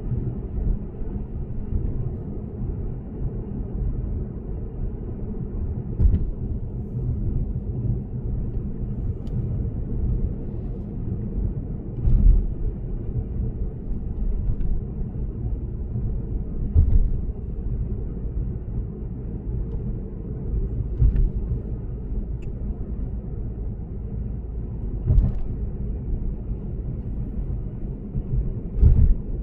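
Steady low road and tyre rumble from a Lexus GS450h cruising on an expressway, heard from inside the car, with a short thump every four to five seconds.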